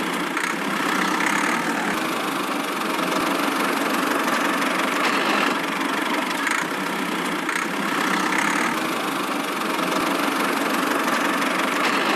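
Miniature DIY tractor's motor running steadily with an engine-like drone that lacks any deep bass.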